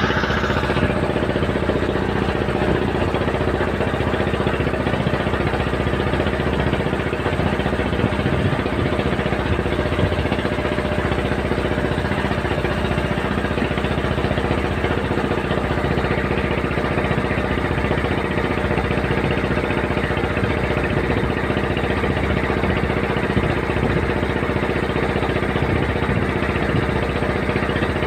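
Boat engine running steadily, heard from aboard, with a constant hum and a rushing noise under it.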